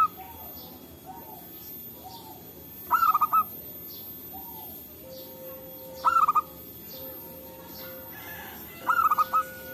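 Zebra doves (perkutut) cooing: three loud phrases of quick, stuttering coo notes about three seconds apart, with fainter, lower coos from other doves answering in between.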